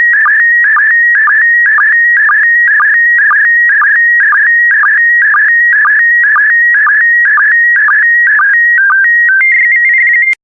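Slow-scan television (SSTV) signal in PD120 mode, sending the closing lines of an image: a warbling electronic tone broken by a short, lower sync blip about twice a second, one for each pair of picture lines. Near the end it steadies on a higher tone and then cuts off abruptly, marking the end of the image.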